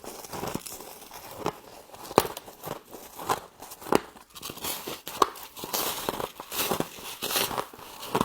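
Frost being bitten and chewed, a close series of irregular, crackly crunches, a few of them sharp and loud.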